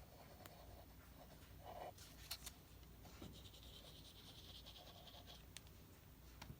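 Near silence with faint paper-craft handling: a few soft taps about two seconds in, then a faint scratchy rubbing on paper for a couple of seconds.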